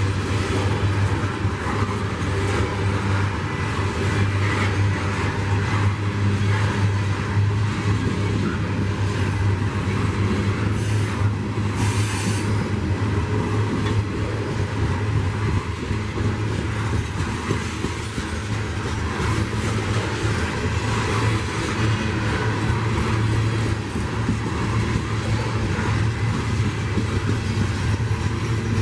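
Steady low engine rumble under a broad wash of running noise, with a brief high hiss about twelve seconds in.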